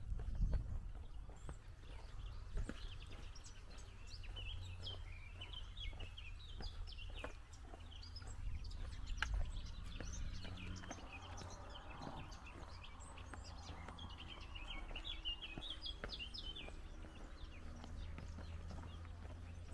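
Small birds chirping and twittering in short, quick phrases, in bunches a few seconds in and again past the middle, over a steady low rumble.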